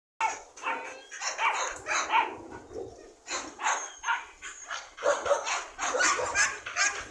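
A dog barking and yipping in a quick, continuous run of short calls, about two to three a second.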